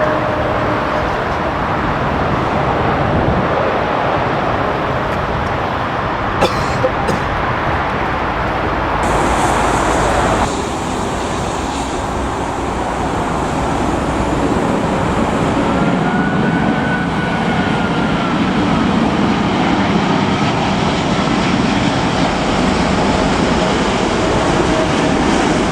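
Steady roar of strong wind with the rumble of jet aircraft at an airport. A few sharp clicks come about six and a half seconds in, and the sound changes abruptly about ten seconds in.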